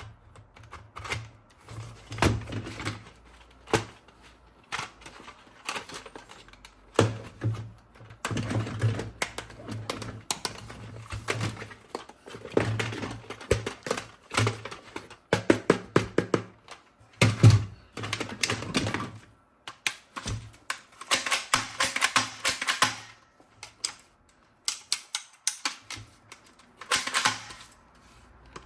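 Irregular clicking, clattering and knocking of hard objects being handled, with stretches of rustling.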